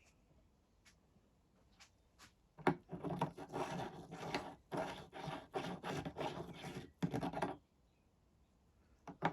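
Hand-handling noise: about five seconds of rubbing, scraping and small clicks as parts are handled and worked by hand, starting a few seconds in and stopping near the end.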